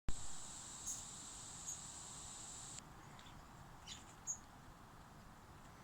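A few short, high bird chirps from small songbirds at a garden feeder, over a steady high-pitched whine that stops suddenly about three seconds in.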